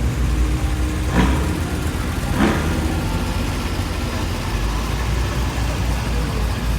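Car engine running with a steady low rumble, with two brief sharper sounds at about one second and two and a half seconds in.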